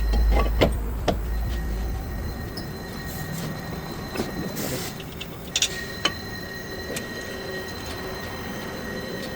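Metal tools and brake parts clinking and knocking, a few sharp strikes scattered through, over a low rumble at first and a steady faint hum. A short hiss about four and a half seconds in.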